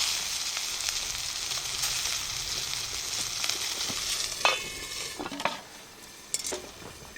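Pork chop sizzling in a cast-iron skillet: a dense, steady high hiss that fades away about five seconds in. A few short knocks come near the end.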